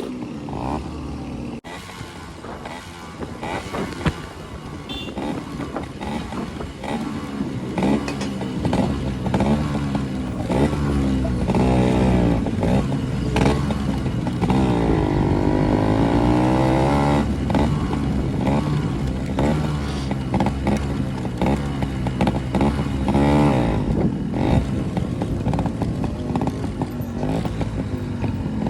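Motorcycle engines running and revving, most likely the group's Yamaha RX two-strokes. The engine pitch swings up and down, and it gets louder about eight seconds in.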